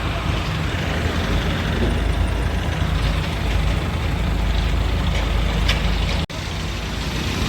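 Heavy diesel engines of Hydra mobile cranes running steadily at a low drone, with the sound breaking off for an instant a little after six seconds.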